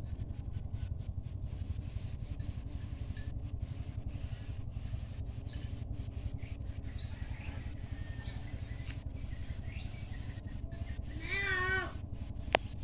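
Small birds chirping, first a quick run of short high notes, then single rising chirps every second or so, over a steady low rumble. Near the end comes a loud, wavering, meow-like animal call about a second long, followed by one sharp click.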